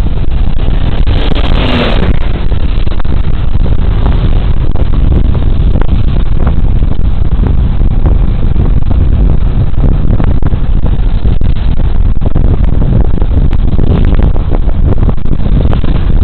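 Loud, steady wind rush and road noise on a body camera's microphone while riding a Suzuki Burgman Street 125 scooter. A brief louder rush comes about a second and a half in.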